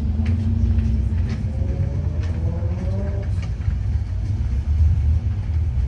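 Car engine rumbling low and steady, with a faint rising engine note in the middle.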